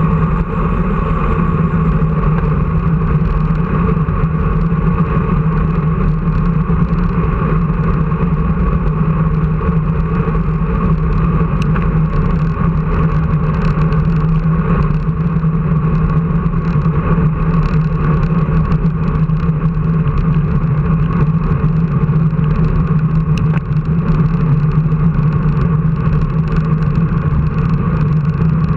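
An engine running steadily at constant speed, an even drone with no revving or change in pitch.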